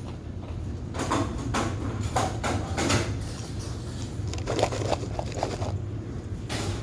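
Ice being chewed and crunched in the mouth, a run of irregular crisp crunches, over a steady low hum of machinery.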